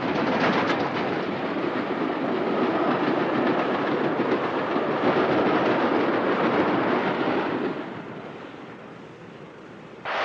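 Steam-hauled express mail train passing at speed: a dense rushing clatter of wheels on rail that swells in at the start and dies away about eight seconds in.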